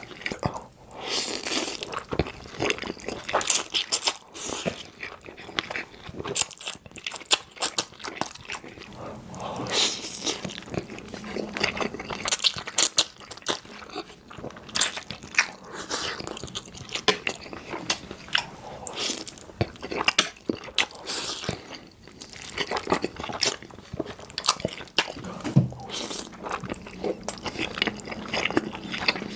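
Close-miked eating sounds: a person biting and chewing creamy pasta, with many irregular wet mouth clicks and smacks.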